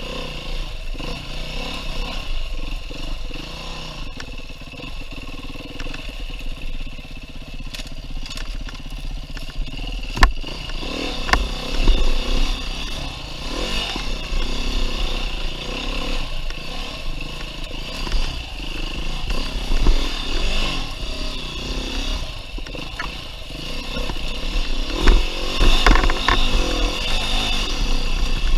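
2019 Beta 390 RR-S four-stroke dirt bike engine revving up and down hard as the bike is ridden along a trail. Sharp knocks and clatter are heard several times as the bike goes over rough ground.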